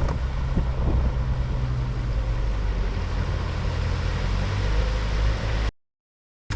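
Tata Sumo driving, with a steady low engine drone and road noise. It cuts off abruptly to silence near the end.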